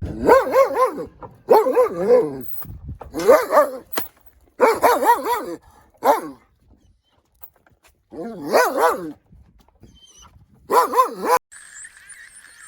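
A dog barking in about seven quick runs of short, high barks, with pauses of up to two seconds between runs.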